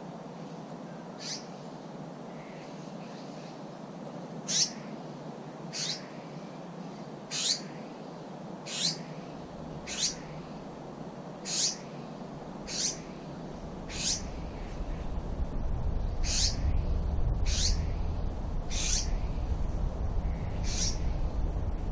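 A bird calling over and over with short, high calls that sweep downward in pitch, about one every second and a half, over a steady outdoor hiss. A low rumble grows in the background from about two-thirds of the way through.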